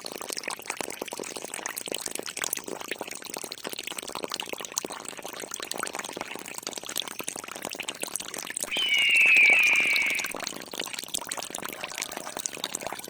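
Water from a miniature DIY water pump splashing and trickling steadily. About two-thirds of the way in, a high, slightly falling whine rises over it for a second and a half.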